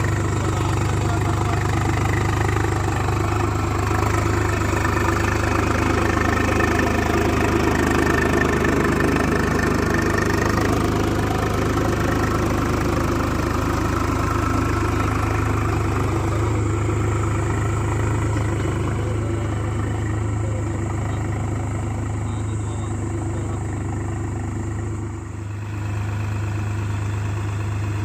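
Swaraj 735FE tractor's three-cylinder diesel engine running steadily while pulling a karha (earth scraper/leveller), with one brief dip in level near the end.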